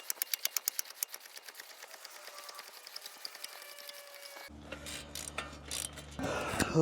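Hand ratchet clicking rapidly as a bolt is backed out, about nine clicks a second, then slower and fainter clicking. A low hum comes in about four and a half seconds in, and a man's falling groan is heard near the end.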